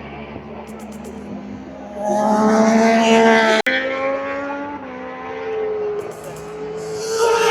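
Racing motorcycles passing at speed, the engines' pitch sliding down as each goes by. The loudest pass comes about two seconds in and is cut off abruptly; another bike builds up near the end.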